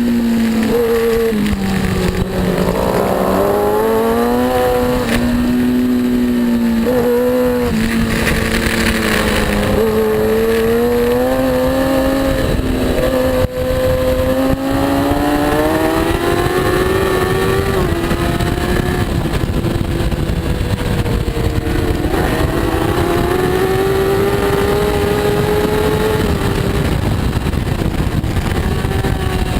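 A superbike racing motorcycle engine running hard on track, its pitch climbing and falling again and again with the gear changes and throttle through the corners. There is a short dip in level about halfway through.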